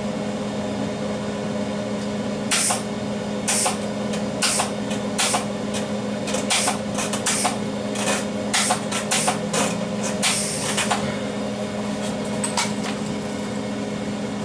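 Rebuilt Hobart MIG welder humming steadily at its 68-volt setting, with a string of short, sharp, irregular crackles, roughly one a second for several seconds: brief arc strikes that do not hold while the wire feed is misbehaving.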